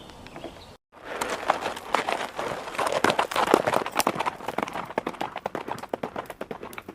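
Horse hooves galloping: a rapid, dense run of hoofbeats that starts after a brief cut about a second in, is loudest around the middle, then thins out.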